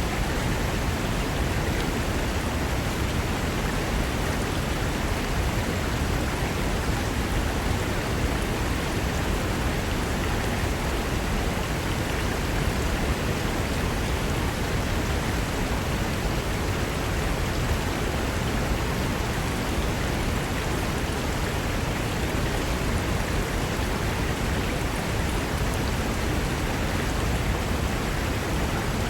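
Fast mountain river rushing over rocks: a steady, dense roar of white water with no change in level.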